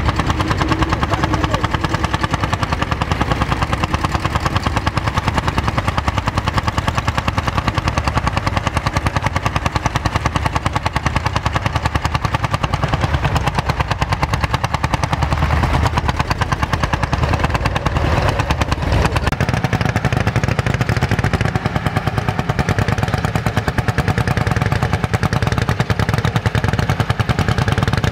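Vintage farm tractor engine running steadily with a rapid, even firing beat.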